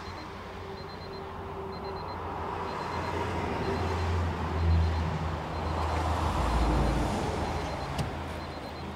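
A large vehicle's engine rumbling, swelling toward the middle and easing off again, against freeway traffic noise. A faint high beep repeats about once a second, and there is a sharp click near the end.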